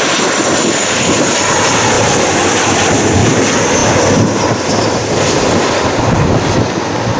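Jet airliner passing close by: a loud, steady rush of engine noise with a high whine that slowly falls in pitch.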